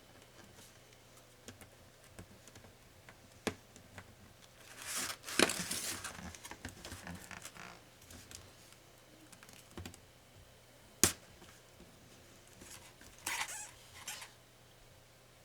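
Hands and small tools working on a laptop during disassembly: scattered light clicks, a scraping rustle about a third of the way in, one loud sharp click past the middle, and another short scraping rustle later on.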